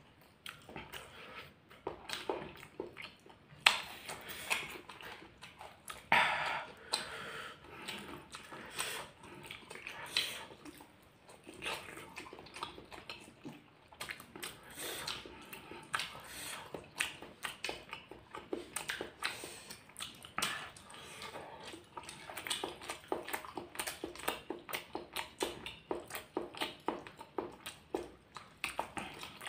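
Close-up eating sounds: raw chili peppers, rice and boiled egg being chewed, an irregular run of crunches and wet mouth clicks. A few louder crunches come in the first ten seconds, and the clicks come closer together later on.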